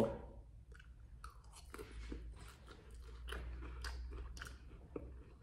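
A person chewing a mouthful of bacon cheese fries, with small soft crunches and clicks.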